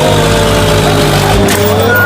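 A truck engine running steadily with a low drone, with higher tones sliding slowly downward over it.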